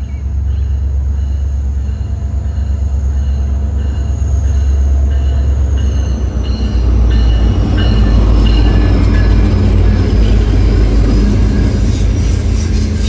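A passenger train pulled by several diesel cab-unit locomotives approaching and passing close by. The locomotives' deep engine rumble grows louder, loudest as they go by about eight seconds in, with a faint high squeal from the wheels.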